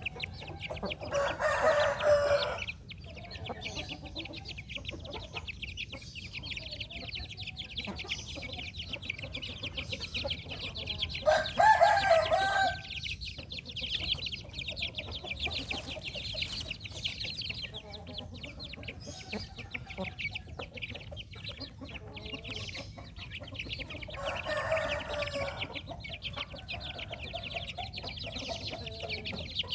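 Chickens clucking while a rooster crows three times, about ten to twelve seconds apart. A steady high-pitched chirring runs underneath.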